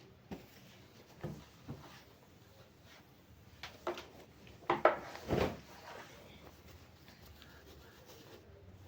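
A few short knocks and clatters of parts being handled, the loudest cluster about five seconds in, then quiet handling.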